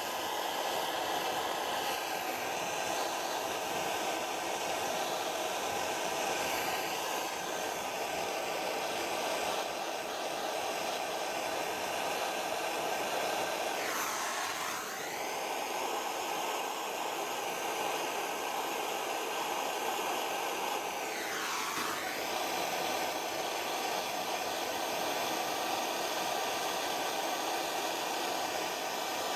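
Gas blow lamp burning with a steady rushing flame, heating work for silver soldering. The tone sweeps down and back up twice, near the middle.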